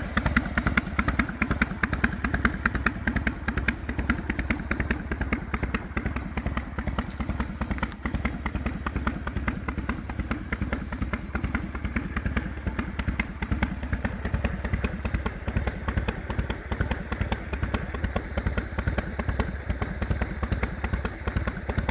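1999 Harley-Davidson FXSTS Springer Softail's Evolution V-twin idling through drag pipes with a steady, loping 'potato-potato' beat of uneven exhaust thumps. Its oil is treated with a molybdenum additive, which the owner credits for quieter engine noise.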